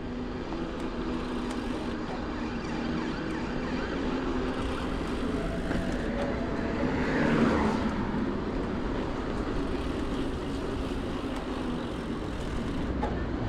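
Road traffic heard from a moving bicycle, with steady road noise throughout. A motor vehicle passes close by about halfway through, its sound rising to a peak and falling away.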